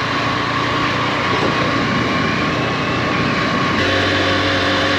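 A small 110cc motorcycle engine running steadily. About four seconds in there is a click and the engine note turns steadier.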